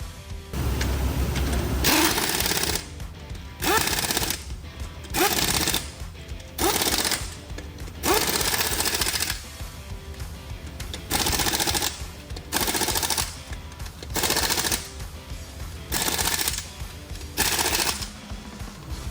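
Pneumatic impact wrench rattling in a dozen short bursts of a second or so, some with a rising whine as it spins up.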